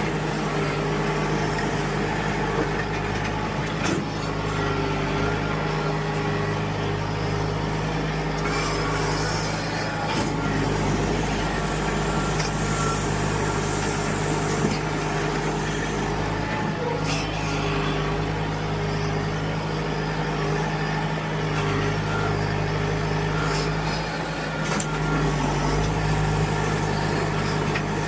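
John Deere tractor's engine running at a steady speed, with a few faint clicks over it.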